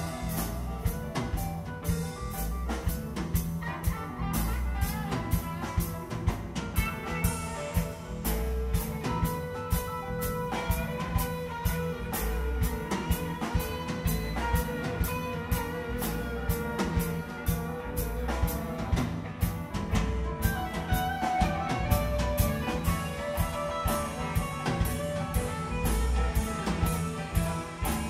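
Live band playing a bluesy instrumental jam: guitar lines over a drum kit keeping a steady beat.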